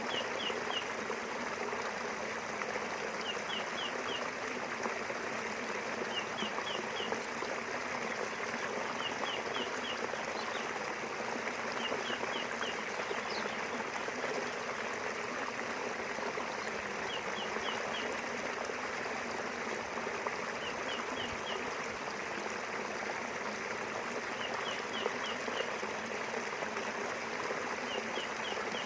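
River water flowing steadily, a continuous rushing babble. Over it, a bird repeats a short chirp of three or four quick notes every few seconds.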